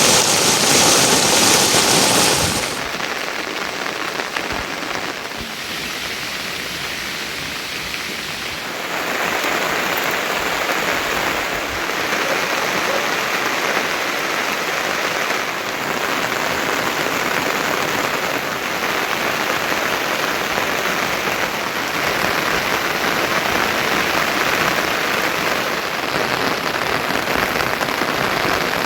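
Heavy rain falling steadily on surfaces as an even hiss. It is loudest for the first couple of seconds, drops off suddenly, and swells again about nine seconds in.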